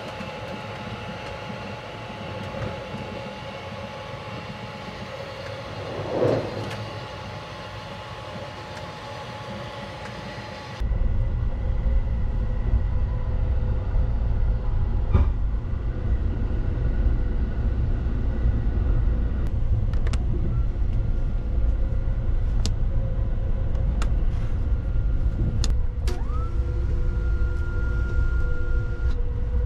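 Sunrise Seto sleeper train running, heard from inside a sleeping compartment: a steady low rumble that suddenly becomes much louder about a third of the way in, with a few faint clicks and a faint steady tone.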